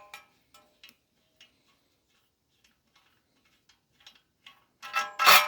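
Faint, scattered metallic ticks of a 13 mm pipe wrench working a bolt on a lawn tractor engine. Near the end comes one loud, ringing metal clank.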